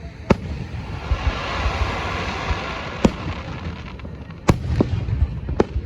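Fireworks going off: four sharp bangs of shells bursting, spread over a few seconds, with a hiss between about one and three seconds in.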